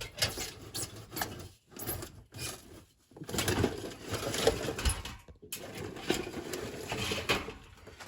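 Irregular rustling and clattering of objects being handled and rummaged through, with many small clicks and knocks, busiest in the second half and dying away at the end.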